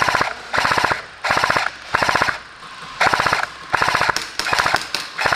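Airsoft M249 Mk46 support gun firing repeated short full-auto bursts, about seven in all: a fast mechanical rattle of roughly twenty shots a second, with brief pauses between bursts.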